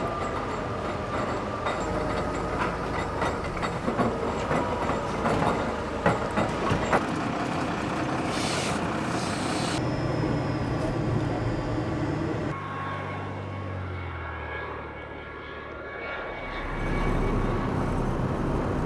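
Steady mechanical rumble with many scattered clicks and knocks. About twelve seconds in it cuts abruptly to a lower, quieter hum, which rises again near the end.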